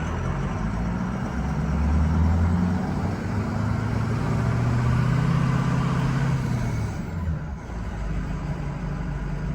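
Ford 6.0 Power Stroke diesel pickup engine pulling a loaded trailer at low speed, heard from inside the cab; the engine pulls harder twice and eases off about seven seconds in as the trailer brakes are tried out.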